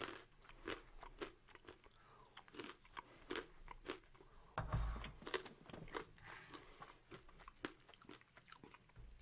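A person chewing roasted almonds: a run of faint, irregular crunches as the nuts are bitten and ground. There is a brief low thump about halfway through.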